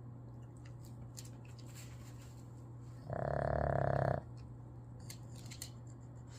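Boston terrier snoring: one loud snore about three seconds in, lasting about a second.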